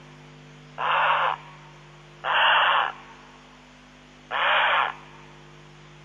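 A bird calling three times, each call a hoarse, rasping screech of about half a second, roughly every two seconds.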